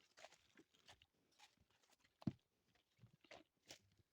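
Faint, irregular crunching footsteps on gravel track ballast, with one sharper, louder crunch a little past two seconds in.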